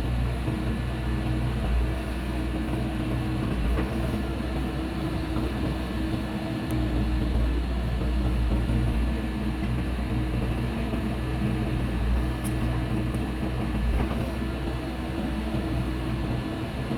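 Heavy machine's diesel engine running steadily at a constant hum.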